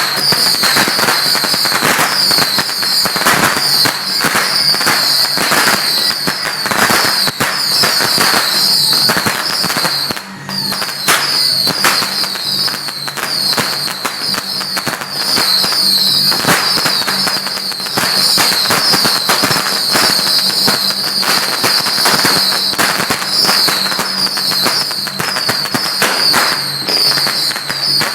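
Firecrackers going off in a dense, continuous crackle of rapid bangs, thinning briefly about ten seconds in before picking up again.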